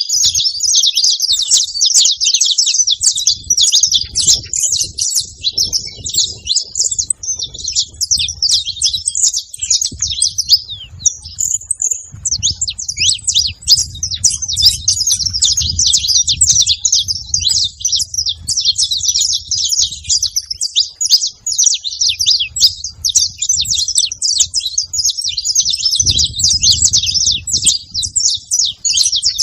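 Several saffron finches (canário-da-terra) singing together, a dense, continuous chorus of rapid high chirps and trills, with a brief lull about eleven seconds in.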